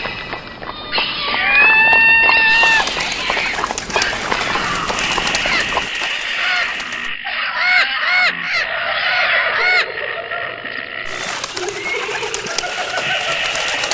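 Bird-like calls over a constant hiss: one long held call about two seconds in, then a quick run of short rising-and-falling notes from about seven to ten seconds in.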